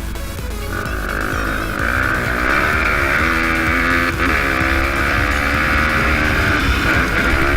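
Pit bike engine running hard at high revs, its pitch rising and falling as the throttle is worked.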